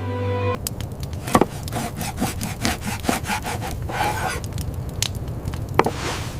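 Irregular scraping with sharp cracks and clicks over a steady low rumble, starting about half a second in.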